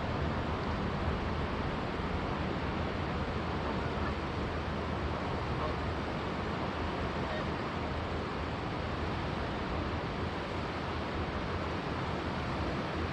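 Steady rush of a flowing river, with a few faint, brief Canada goose honks over it.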